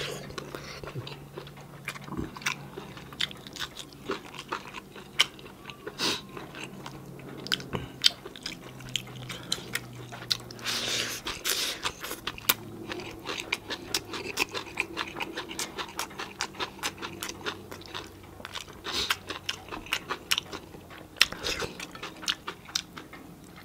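A person eating by hand: wet chewing and lip smacks with many short, irregular crunchy clicks, as he eats roast chicken and shredded red cabbage salad.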